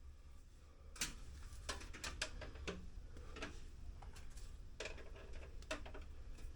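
Scattered light clicks and knocks of small parts and cables being handled, starting about a second in, over a low steady hum.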